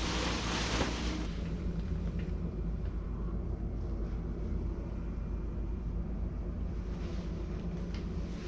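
Steady low machine drone with a broad hiss that drops away about a second in. It cuts off abruptly at the end.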